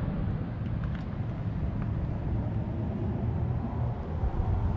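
A steady low rumble, typical of a V8 engine idling, with a few faint clicks.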